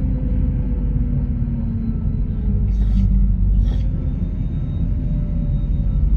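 MAZ 103.486 city bus running along the road, heard from inside the passenger cabin: a steady low engine and road rumble, with two brief high noises about three seconds in, roughly a second apart.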